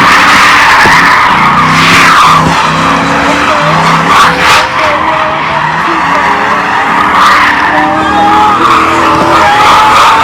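Car spinning its tires in a long, continuous tire squeal, the engine revving in surges underneath.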